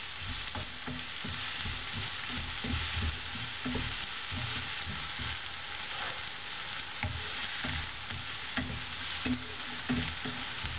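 Chopped onions and peanuts sizzling steadily in hot oil in a non-stick kadai, with a wooden spatula stirring and scraping through them in irregular strokes.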